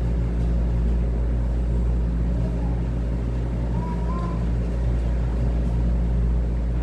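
Steady low hum and rumble of background noise, with no speech; a faint brief whistle-like tone about four seconds in.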